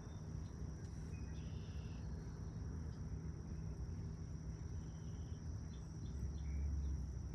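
Insects, likely crickets, keep up a steady high-pitched drone, with a few short chirps. Under it runs a steady low outdoor rumble that grows a little louder near the end.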